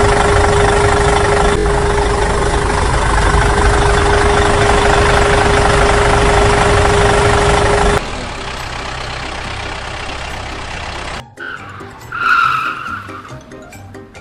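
A small motor running with a steady whine over a rough buzz, cutting off abruptly about eight seconds in. A quieter mechanical sound follows, and music comes in near the end.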